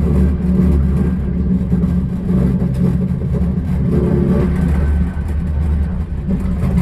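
A loud, steady, low mechanical rumble, like a vehicle's engine running.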